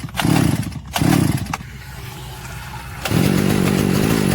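Small petrol engine being pull-started: it fires briefly twice, then catches about three seconds in and runs steadily. It is firing but not running strongly.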